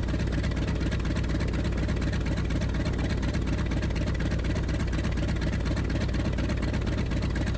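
North American T-28 Trojan's radial engine idling steadily on the ground while warming up before the run-up.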